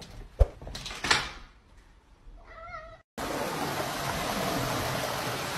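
A cat meows once, a short wavering call, after a couple of faint knocks. Then a steady rushing hiss of background noise starts and is the loudest sound.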